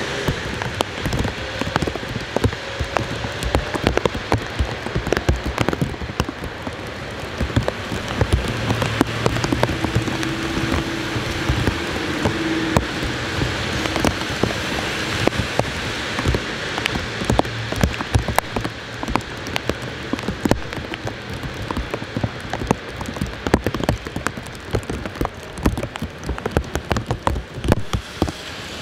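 Steady heavy rain on a wet city street, with many sharp drop strikes close by. A car passes on the wet road around the middle.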